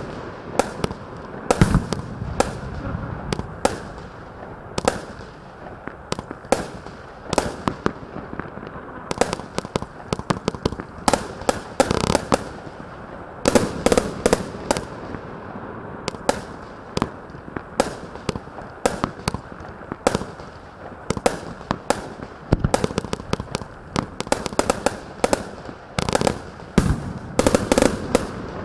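Panta 'Libra' 72-shot fireworks battery firing: a long, irregular run of sharp bangs, often in quick clusters, from mines, tails and bursting shells, titanium salutes among them. A steady hiss lies underneath.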